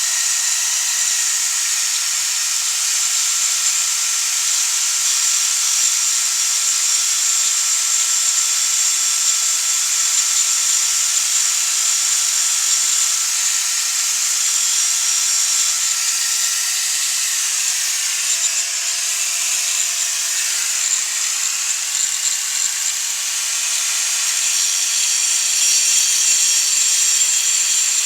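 High-speed power tool running continuously, a steady high-pitched whirring hiss whose pitch sags and recovers about two-thirds of the way through, as if briefly loaded.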